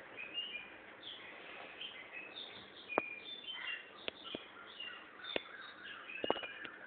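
Birds chirping and squeaking in quick short calls, with several sharp clicks or taps in the second half.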